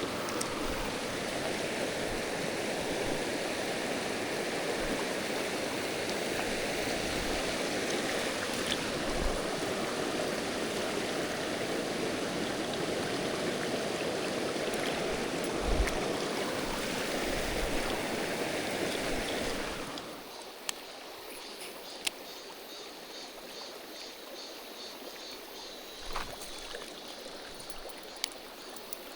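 Mountain stream water rushing steadily over rocks. About two-thirds of the way in it drops noticeably quieter, with a few sharp clicks and knocks over the softer flow.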